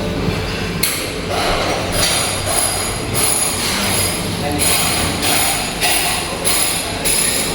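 Busy buffet restaurant din: a steady wash of diners' voices and clatter.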